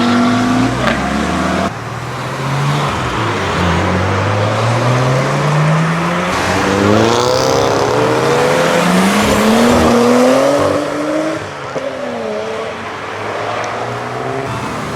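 Modified cars' engines accelerating away, their pitch rising in one sweep after another as they pull through the gears, with a sudden drop in level about two seconds in.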